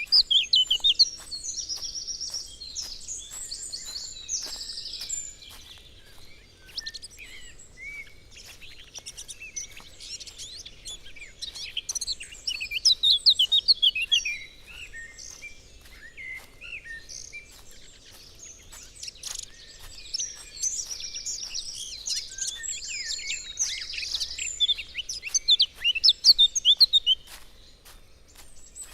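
Woodland songbirds singing, several overlapping chirps and trills that come in bouts, with faint clicks throughout.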